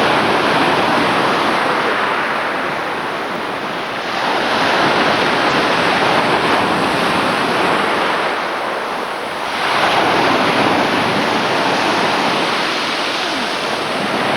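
Sea waves washing in with a steady rush that swells twice, about five to six seconds apart.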